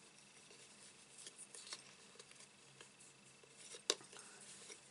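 Faint small clicks and rustles of hands working ribbon on a small bow maker, with one sharper click about four seconds in.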